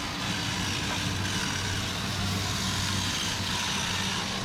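An engine running steadily at low speed, with a low hum that swells and eases about once a second.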